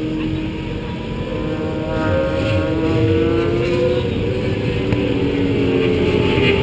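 Onboard sound of a track-day vehicle's engine under load at speed, with wind and road rush. The engine pitch climbs steadily, drops about four and a half seconds in, then climbs again.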